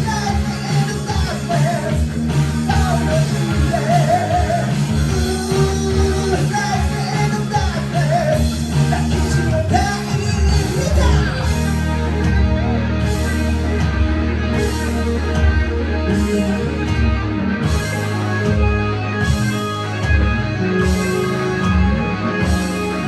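Live hard rock band playing: drums, bass, electric guitar and keyboards, with a wavering, bending lead melody in the first half. From about halfway the drummer adds steady cymbal hits, roughly one and a half a second.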